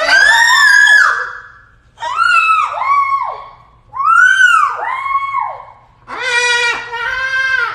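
Parrot screeching: one harsh call, then two pairs of short arched squawks, then one longer, steadier call near the end.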